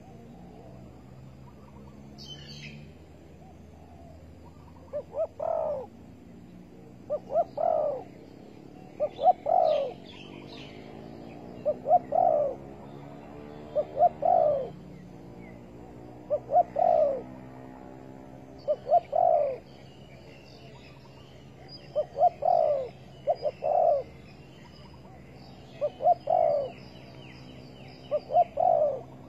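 Spotted dove cooing: a phrase of two short coos and a longer one, repeated about every two to three seconds, with faint high chirps of small birds in the background.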